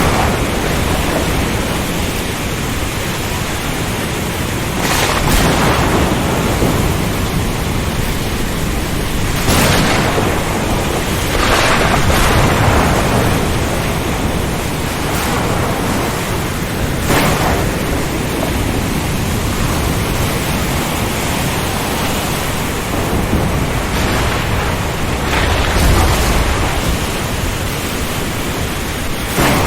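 Storm at sea: dense, steady noise of heavy rain and strong wind, with several louder swells a few seconds apart that sound like thunder or breaking waves.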